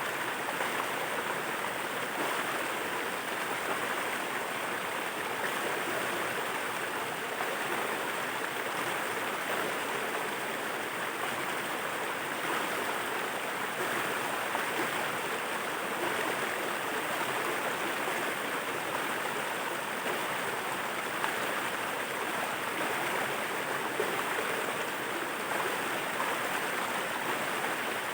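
Waterfall: water falling and rushing in a steady, unbroken hiss with no pauses or changes.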